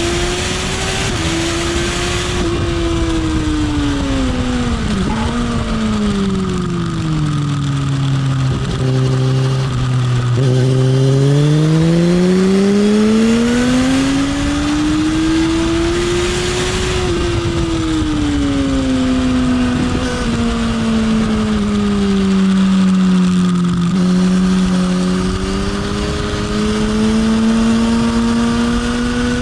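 Motorcycle engine on a race track, its pitch sinking as the bike slows for corners and climbing again as it accelerates out, twice over, with wind rushing loudly past the microphone at the fastest points.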